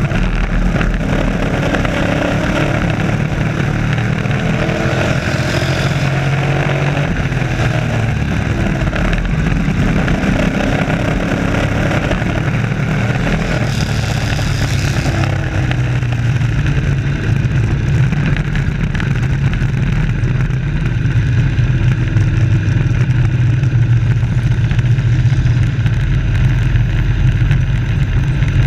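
Several race trucks' engines running at speed around the track, a steady low drone with engine notes rising and falling as trucks pass, mostly in the first half.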